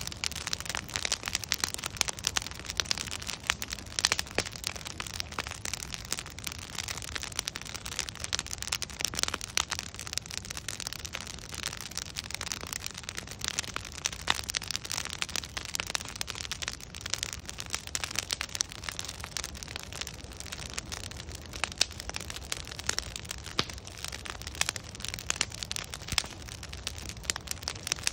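Wood bonfire burning, with logs crackling and popping in a dense, irregular stream of sharp snaps over a steady hiss and low rumble of the flames.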